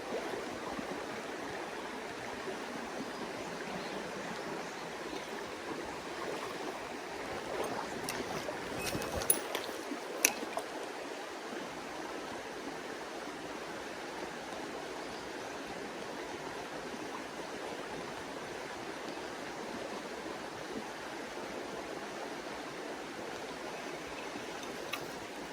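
Mountain stream water running steadily over rocks. Two short sharp clicks stand out about nine and ten seconds in.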